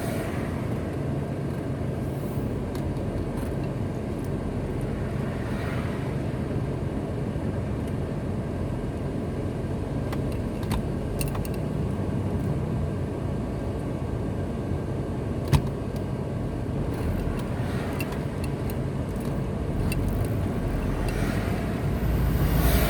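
Steady road and engine noise of a car driving on a highway, with other vehicles swelling past about six seconds in and near the end. A single sharp click about two-thirds of the way through.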